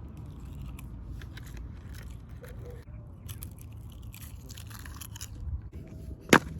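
Close-up mouth sounds of someone biting and chewing crunchy food, heard as a string of small crackly clicks. A single sharp knock comes near the end.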